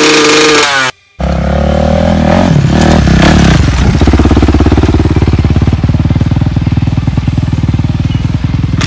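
A dirt bike engine held at high revs cuts off abruptly about a second in. Then another dirt bike engine runs at low revs with a fast, even, throbbing beat, briefly revving up and down early on.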